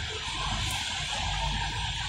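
Steady hiss of rain falling on a wet paved street, over a low continuous rumble of city background.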